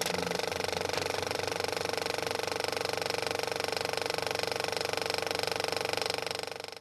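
A steady, fast mechanical rattle that fades out near the end.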